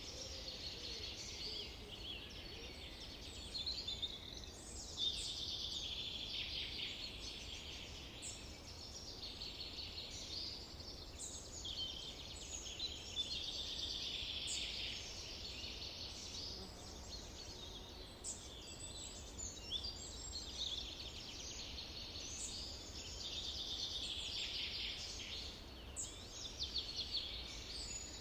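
Several songbirds singing at once: a dense chorus of overlapping high-pitched trills and chirps, with a faint steady low rumble underneath.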